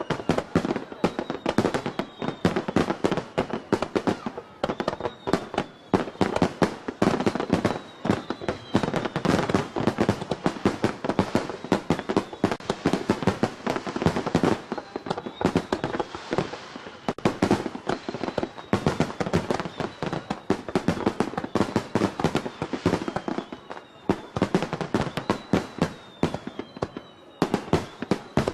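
Aerial fireworks in a dense finale barrage: a rapid, unbroken run of bangs and crackling bursts, with short whistles sliding down in pitch every few seconds.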